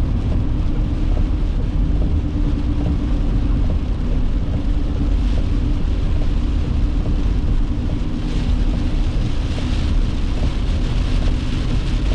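Steady road and engine noise inside a moving vehicle's cabin, a low rumble with a faint steady hum.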